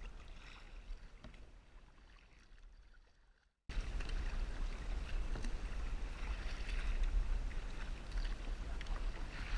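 Water sloshing and lapping around a kayak on the ocean, with small ticks and a low rumble. The sound fades down, drops out completely for an instant about three and a half seconds in, then comes back louder.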